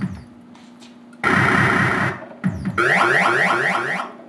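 Electronic game sounds from a 1979 Williams Gorgar pinball machine: a loud buzzing burst about a second in, then a run of quickly repeated rising synthesized sweeps, like an alarm.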